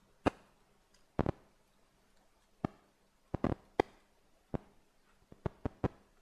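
Irregular sharp taps and clicks of small hard tools and pins being handled while a dead tarantula specimen is pinned out. About a dozen, bunched in quick runs about halfway through and near the end.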